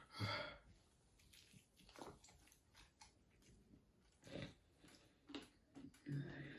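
Near silence with a few faint, short sounds of a person biting and chewing a sauced chicken wing, and a brief faint vocal sound just after the start.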